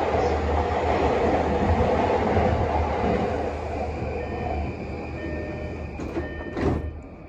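JR East E233 series electric commuter train running on the track, loud with wheel and rolling noise while another train passes close alongside. About four seconds in, the noise eases, leaving a faint high whine. Near the end there is one short loud clack.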